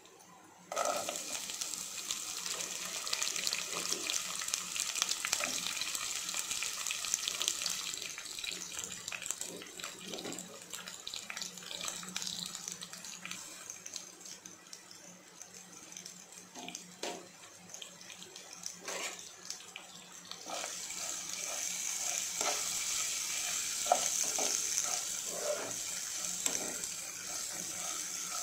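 Hot oil sizzling in a cooking pot as lentils, seeds and sliced onions fry. The sizzle starts suddenly about a second in, eases off in the middle, then swells again about two-thirds of the way through, with a spoon scraping and knocking against the pot.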